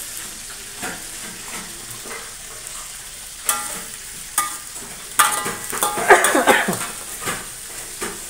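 Chinese eggplant sizzling as it fries in oil in a metal wok, stirred with a metal spatula that scrapes and clanks against the wok several times, loudest and ringing between about five and seven seconds in.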